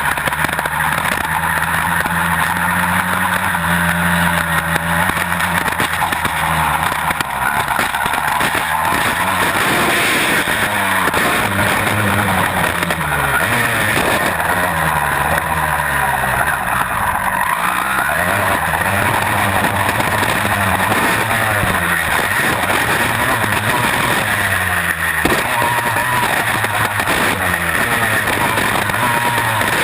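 Honda CR250's single-cylinder two-stroke engine being ridden hard, its revs climbing and dropping over and over as the rider opens and closes the throttle and shifts.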